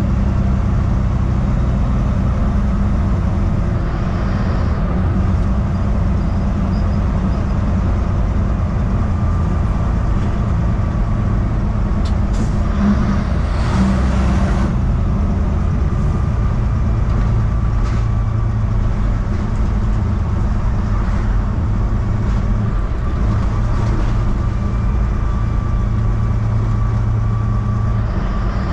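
Heavy semi truck running at road speed, a steady engine drone over tyre and road noise. The engine note shifts to a lower pitch about halfway through, and there is a brief rush of noise around the middle.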